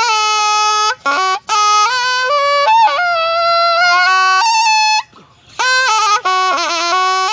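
Thai pi, a reed oboe, playing a solo melody with wavering, ornamented notes and pitch bends. It breaks off briefly about a second in and again for about half a second past the middle, as the player takes breaths between phrases.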